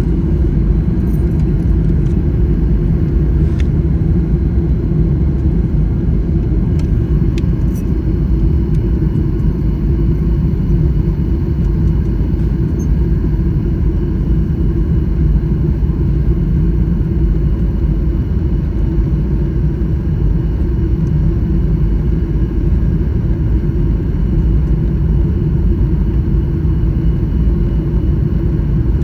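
Steady low rumble inside the cabin of a Boeing 737 MAX 9 airliner: engine and airframe noise holding level throughout, with a couple of faint clicks in the first eight seconds.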